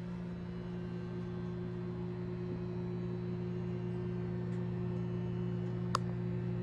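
Steady low hum made of a few fixed tones, with one short sharp click about six seconds in.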